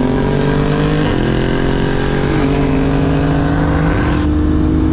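Car engine at full throttle, accelerating hard: its pitch climbs steadily, with upshifts about a second in and about two and a half seconds in.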